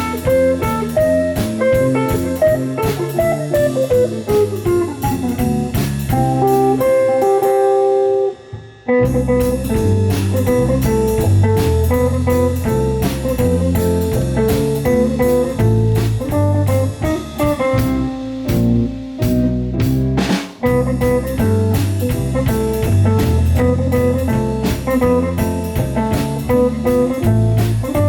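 Live band playing an instrumental blues-jazz number led by guitar, with bass and drum kit. About seven seconds in, the bass and drums drop away for a short break of held notes, then the full band comes back in.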